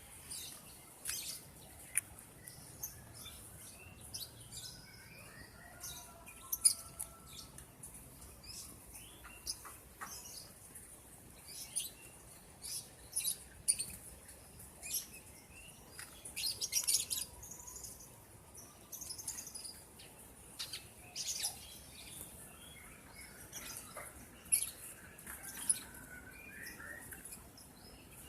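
Lovebirds chirping: many short, shrill calls at irregular intervals, with a thicker flurry of calls a little past the middle.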